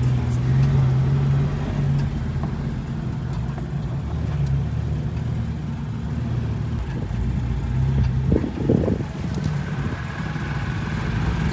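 A Jeep driving along, its engine humming steadily at a low pitch with road noise. A short burst of rattling noise comes about eight seconds in.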